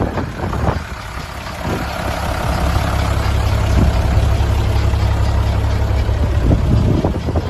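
Diesel engine of a 1995 Fuso Fighter tanker truck running steadily with a deep, even hum that settles in about two seconds in. Gusty wind noise on the microphone can be heard at the start and near the end.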